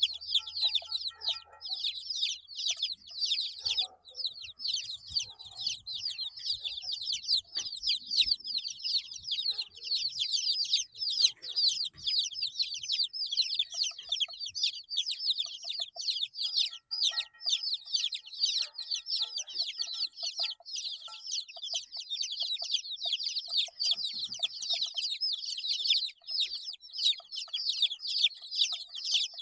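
A brood of 8-day-old chicks peeping continuously, many short high calls overlapping without pause.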